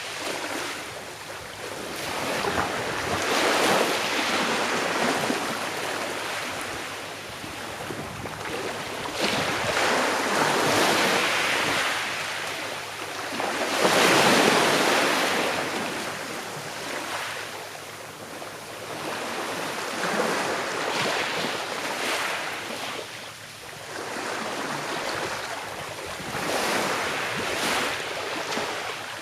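Small sea waves washing onto a shore, each swell of surf rising and falling away every few seconds, the biggest about halfway through.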